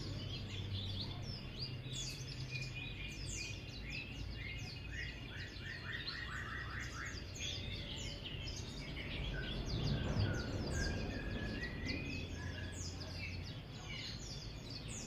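Buxtoni white-eye (pleci) singing a long, rapid twittering 'ngeriwik' run of high chirps and quick downward-sweeping notes, over a steady low rumble.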